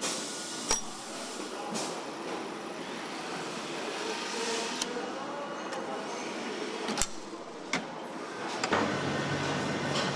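Truck assembly-line factory noise: a steady noisy background with a few sharp clanks, three of them standing out, and a low machine hum coming in near the end.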